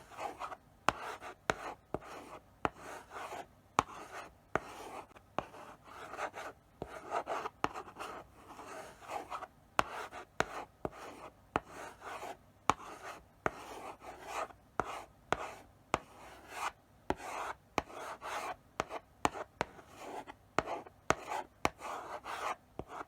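Chalk writing slowly on a blackboard: a steady run of short scratchy strokes, with sharp taps as the chalk meets the board at the start of each stroke.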